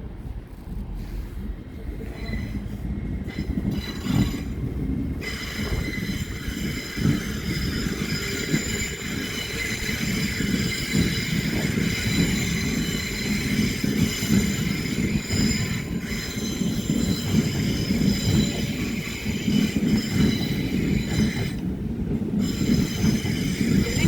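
A train running through the station, getting louder over the first few seconds, with a deep rumble of wheels on rails. From about five seconds in, a high metallic squeal of several tones rides over the rumble and holds.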